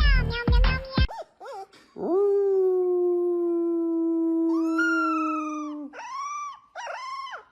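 Dog howling: one long, steady howl of about four seconds, with a second, higher howl joining in partway through, then a few short howls that rise and fall near the end.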